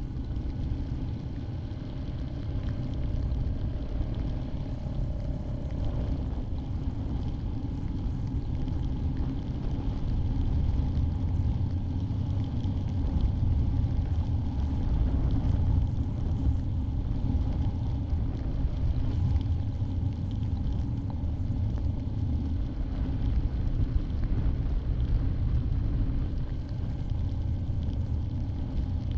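Yamaha Grizzly 700 ATV's single-cylinder engine running steadily while riding, a continuous low rumble that grows a little louder from about ten seconds in.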